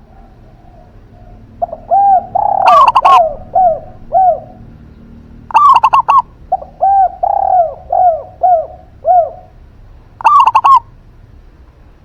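A zebra dove (perkutut) and a spotted dove (derkuku) cooing in turn. Three short, loud bursts of quick notes come about 3, 6 and 10 seconds in. Between them run series of shorter, lower arched coo notes.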